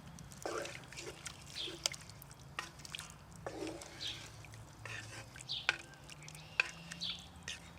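Cooking over a wood fire: liquid blips and soft pops from the pot of stock and sauce in the Dutch oven, with scattered small clicks and crackles, over a faint low steady hum.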